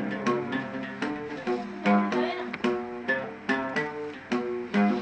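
Instrumental introduction of a song: a plucked string instrument playing a quick melodic run of sharply struck notes, with deeper notes held underneath.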